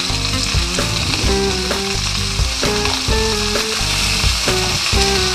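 Chicken pieces, onions and peppers sizzling in olive oil in a pot as they are sautéed and stirred, with steady frying hiss. Background music plays underneath.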